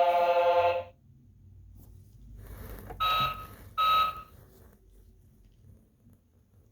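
Electronic sound effects from a battery-powered toy truck: a loud held electronic tone that cuts off about a second in, then two short electronic beeps about a second apart.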